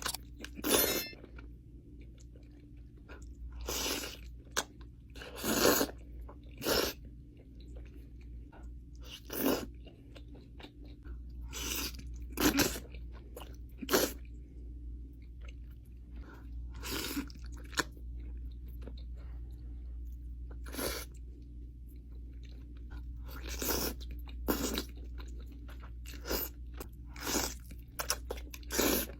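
A person eating crunchy food: loud, crisp bites and crunches come every one to three seconds, with quieter chewing between them.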